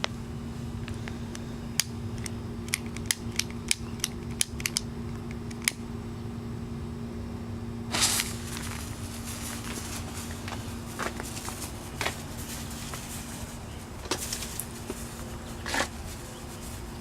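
A run of sharp clicks, then a short burst of noise about eight seconds in, followed by scattered crackles, over a steady low hum.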